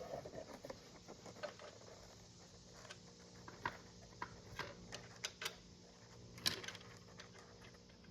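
Faint, scattered light clicks and taps, irregular and a second or so apart, with one sharper click about six and a half seconds in: small parts and tools being handled during work on an ATV's rear brake caliper.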